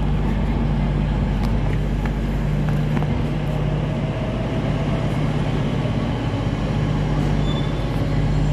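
Steady low mechanical hum of a train standing at the station, with a few faint clicks over it.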